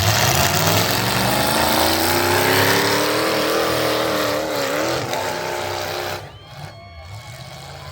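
Truck engine at full throttle under heavy load, its pitch climbing slowly and wavering before cutting off about six seconds in.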